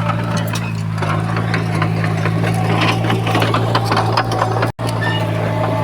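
Diesel engine of heavy earthmoving machinery running steadily with a constant low drone, with many sharp clanks and knocks over it. The sound cuts out for an instant near the end.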